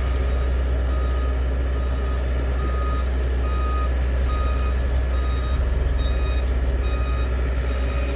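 Backup alarm on heavy construction machinery beeping steadily, about once every three-quarters of a second, over the steady low rumble of a diesel engine.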